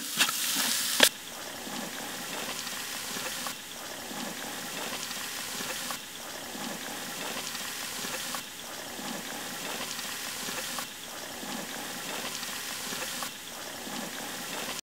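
Egg bhurji (beaten eggs in onion-tomato masala) sizzling as it fries in a large aluminium pot, with a metal ladle stirring it. A few sharp clicks of the ladle against the pot in the first second, then a steady sizzle that cuts off suddenly near the end.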